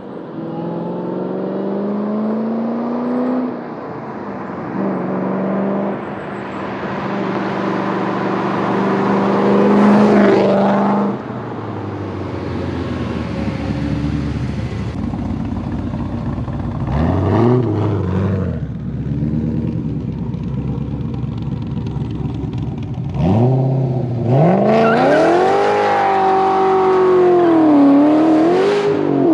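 Cammed 2010 Shelby GT500's supercharged 5.4-litre V8, with long-tube headers, a catted X-pipe and a Stainless Works exhaust, being revved while parked. The note climbs and is held, drops off about eleven seconds in, gives two short blips, then revs again near the end and is held high with a wavering pitch.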